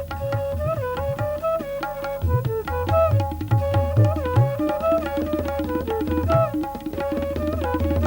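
Hindustani classical music: tabla playing a quick rhythm, its bass drum notes bending in pitch, under a melody instrument with sliding notes.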